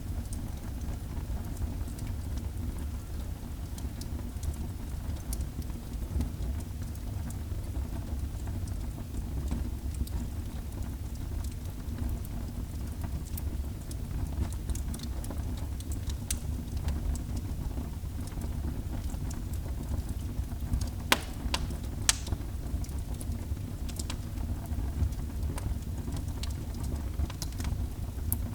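Wood fire burning in a fireplace: a steady low rumble of flames with scattered crackles, and two louder pops a second apart about three quarters of the way through.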